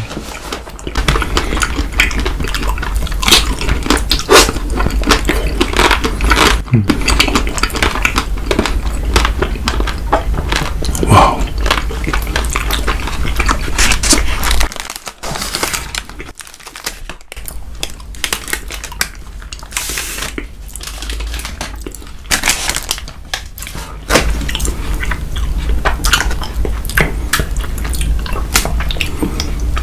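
Close-miked biting and chewing of chocolate-coated Snickers ice cream bars: many short crackling crunches of the chocolate shell, quieter for a couple of seconds midway, over a steady low hum.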